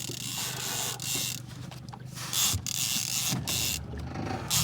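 Fishing reel being wound in short bursts of rasping mechanical whirr as line is retrieved while the angler pumps the rod against a hooked fish, over a low steady hum.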